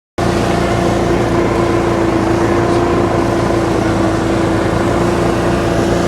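An engine running steadily at one constant speed with a strong, unchanging hum. It cuts in abruptly just after the start.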